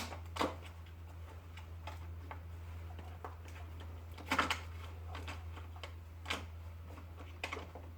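Scattered light clicks and knocks of a generator's cover and its fittings being handled and set back in place, the loudest about four and a half seconds in, over a steady low hum.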